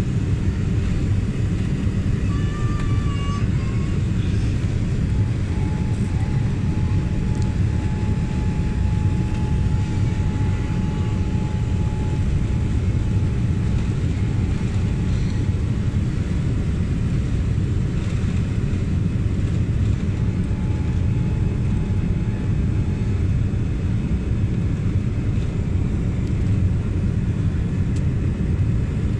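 Jet airliner in flight: a steady, unbroken low rumble of engines and rushing air, with a faint high whine that comes and goes in the first half.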